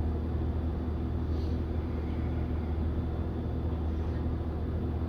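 Steady low hum with a few constant low tones, unchanging throughout: a background machine or room drone.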